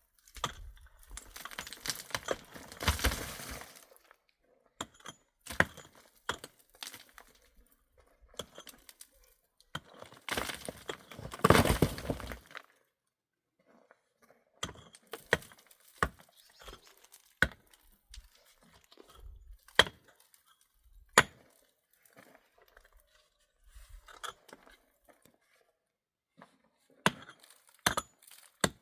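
Irregular knocks and clinks of hard objects being handled, with two longer crunching, scraping stretches: one just after the start and one around ten seconds in.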